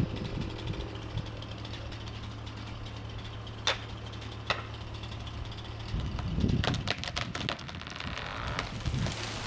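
Chainsaw idling with a steady low hum and a couple of sharp cracks. About six seconds in, a dense run of cracks and heavy thuds as the felled tree comes down through the branches and hits the ground.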